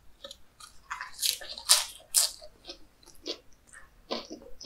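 Close-miked biting into and chewing a lettuce wrap: a quick run of crisp crunches of the leaf, loudest around the middle, then softer, spaced chewing.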